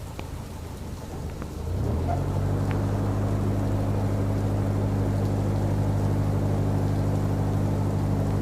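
A narrowboat's bow thruster starts up about two seconds in and runs with a steady low hum, pushing the bow round to free the boat from the weir. Rain falls throughout.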